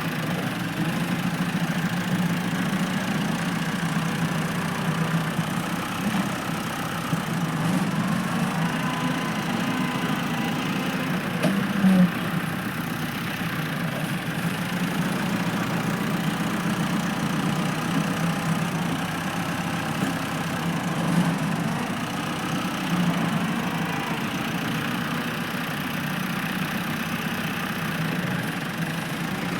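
Tractor engine idling steadily, with a brief louder knock about twelve seconds in.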